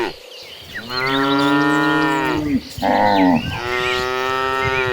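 Cattle mooing: two long, drawn-out moos, the first starting about a second in and the second following right after it.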